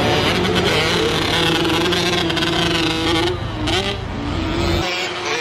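Several motocross bikes running on the track, their engines revving up and down and overlapping. A low rumble under them drops away near the end.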